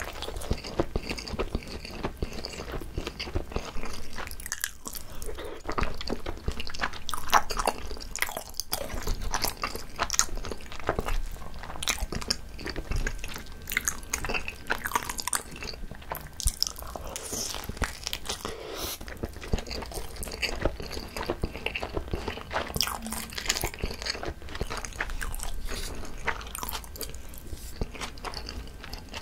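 Close-miked biting and chewing of a whole, uncut gimbap: a seaweed-wrapped rice roll, with a steady run of short sticky, crunchy mouth sounds.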